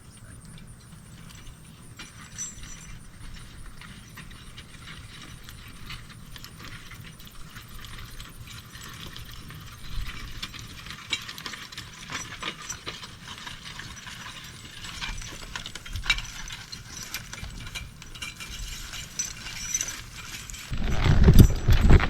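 Horse-drawn garden cultivator and harness rattling and clicking as a draft horse pulls it along the rows, busier in the second half. A louder low rumble starts near the end.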